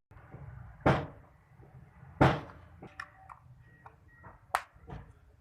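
A series of separate knocks and clinks of tools and metal parts being handled: two sharp, louder knocks about a second and two seconds in, then several lighter clicks and knocks.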